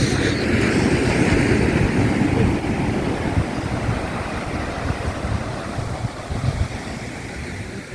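Sea waves breaking and washing up the beach, a broad rush that is loudest at first and slowly dies away, with wind buffeting the microphone underneath.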